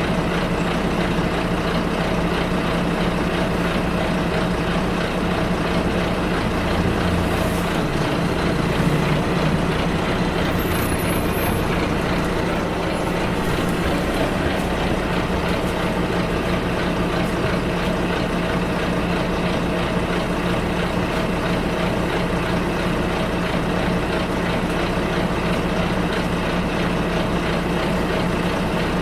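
Bus running along on the move: steady engine hum and road noise heard from inside, with a slight swell around eight seconds in and a few faint high squeaks a little after.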